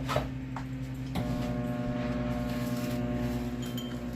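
Microwave oven running with a steady electrical hum; about a second in, a louder buzz with more tones joins, as the oven's power cycles on at the medium setting. A couple of light clinks come near the start.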